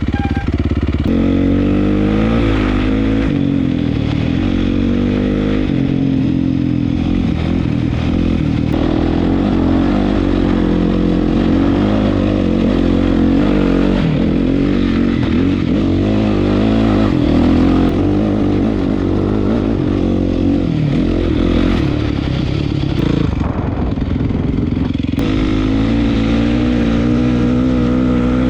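Honda CRF450's 450 cc single-cylinder four-stroke engine, heard raw through an HGS exhaust, running hard while ridden off-road. Its note rises and falls with the throttle and eases off briefly a little before the end, then picks up again.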